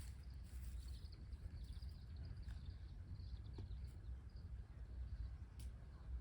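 Faint outdoor ambience: a steady low rumble with a bird chirping high and quick in the first half, and a few sharp ticks.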